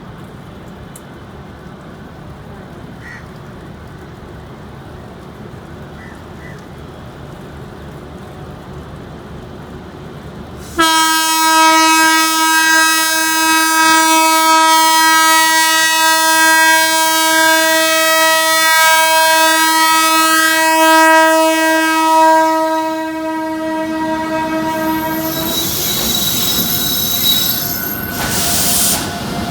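WAP-7 electric locomotive's horn sounding one long steady blast of about fifteen seconds that starts suddenly about eleven seconds in, over a quieter steady background before it. As the horn stops, the train's running noise follows, with a high wheel squeal.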